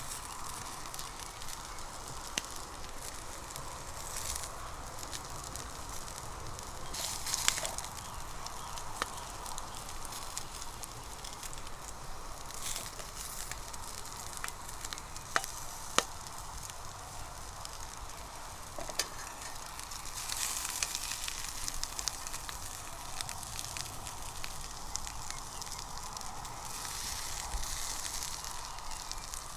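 Onions sizzling as they fry in a pan: a steady hiss that swells now and then, with a few sharp clicks about halfway through.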